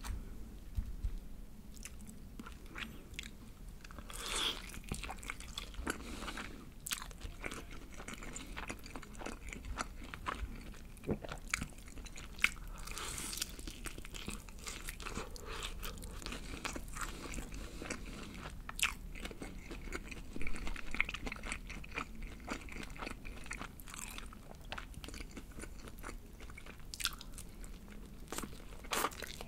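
Biting into and chewing BBQ Golden Olive yangnyeom (sweet-spicy sauced) Korean fried chicken: the crisp coating crunches and crackles in irregular bites between chewing.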